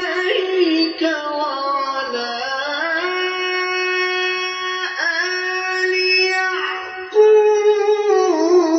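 Quran recitation in melodic chant playing from a television. One voice holds long, ornamented notes that slide between pitches, breaks briefly a few times, and steps up to a louder, higher note near the end.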